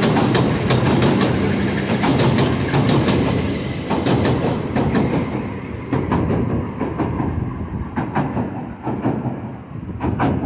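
Southend Pier Railway narrow-gauge train running past at close range: a steady rumble of wheels on the track with frequent sharp clicks over the rail joints. A thin high whine fades out about halfway through, and the whole sound grows quieter as the last carriage passes.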